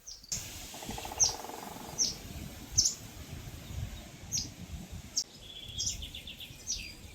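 A bird calling outdoors with short, high, downward-sliding chirps repeated about once a second. A brief buzz about a second in and a short trill about five seconds in are heard over a low rumble.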